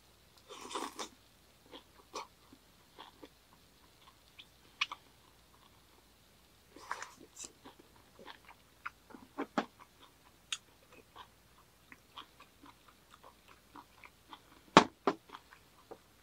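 Close-up chewing and biting of a mouthful of grilled minari (water dropwort) and beef intestines, with small scattered clicks of metal utensils against a stainless steel cup. Near the end a single sharp knock, as the metal cup is set down on the table.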